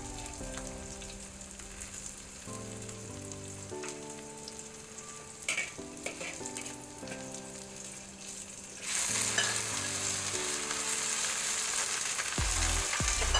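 Chopped aromatics sizzling in hot oil in a steel wok, with a metal spatula scraping and clicking against the pan. About nine seconds in, the sizzle gets much louder as sliced okra goes into the oil. Soft background music with held notes plays throughout.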